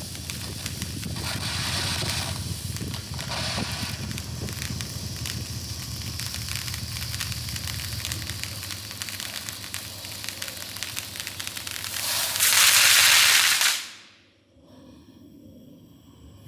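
Consumer novelty firework fountain burning: a hissing spray of sparks with crackling. About twelve seconds in, a louder hissing rush lasts nearly two seconds and then cuts off suddenly.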